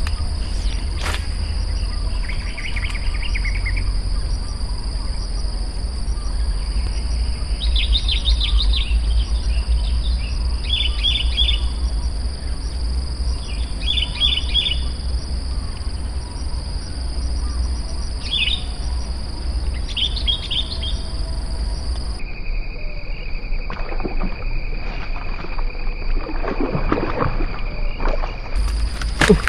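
Birds chirping in short rapid bursts, about half a dozen times, over a steady high insect drone and a constant low rumble. About two-thirds of the way through the drone drops to a lower pitch, and a few scratchy sounds come near the end.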